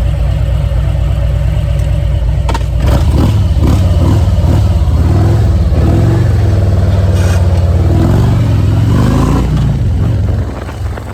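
Harley-Davidson Road Glide's V-twin engine running loud under way, its pitch rising and falling as it revs through the middle, then easing off near the end.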